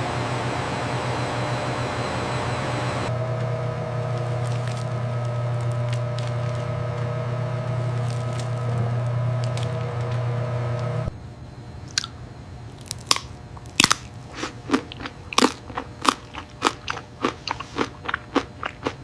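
Steady factory machine hum with a low drone, which cuts off about eleven seconds in. A run of sharp, irregular crunches follows, coming faster toward the end.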